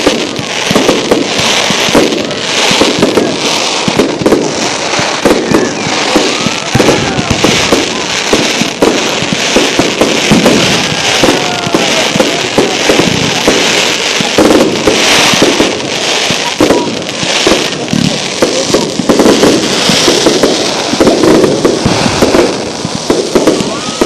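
Fireworks display going off continuously: rapid, overlapping bangs and crackling with no gap, and a few faint whistles gliding in pitch.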